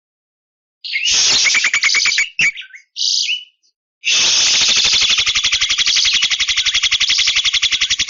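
Javan myna calling: after a short silence, a quick rattling burst and two short harsh notes, the second falling at its end, then from about halfway a long, fast, even rattle of about a dozen pulses a second.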